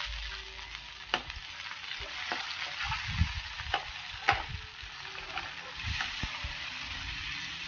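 Sliced onions and chopped tomatoes sizzling in oil in a frying pan as they are sautéed to soften. A perforated metal spatula stirs and scrapes through them, knocking sharply against the pan about five times.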